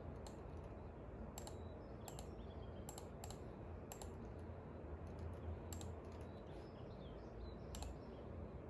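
Sparse, irregular sharp clicks, about eight in the stretch, from desk work such as typing or tapping, over a steady low hum. Faint bird chirps sound in the background.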